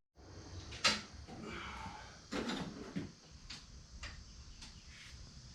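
A few scattered light knocks and clicks from handling during the work, the sharpest about a second in and another about two and a half seconds in, over a low background.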